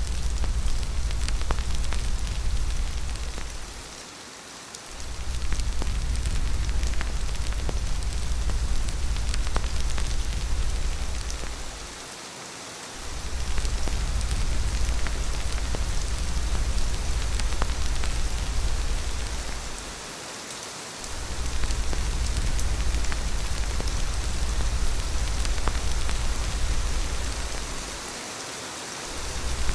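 Steady rain falling, with scattered drop ticks, over a deep low rumble that fades out and returns about every eight seconds.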